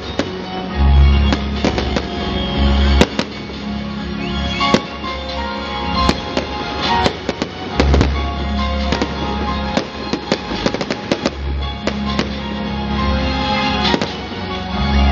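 Fireworks going off: repeated sharp bangs with bursts of rapid crackling, thickest about halfway through and again a few seconds later, over music with a steady bass line.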